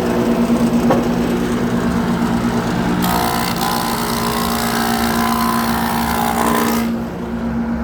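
Sawmill machinery running with a steady hum. About three seconds in, a louder hissing whine joins for roughly four seconds, then stops abruptly.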